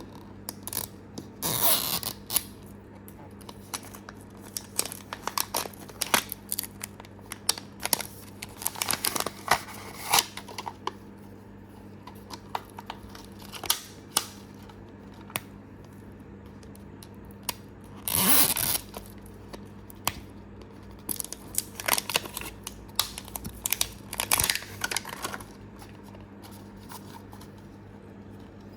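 Plastic toy-capsule packaging being handled and torn open up close: irregular crinkling, tearing and small clicks, with a few louder bursts of rustling. A faint steady low hum runs underneath.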